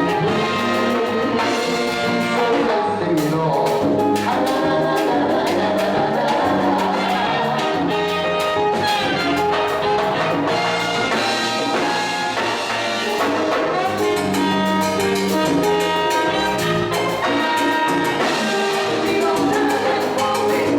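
Salsa orchestra playing live in an instrumental passage, with trumpets and trombones leading over a steady percussion rhythm.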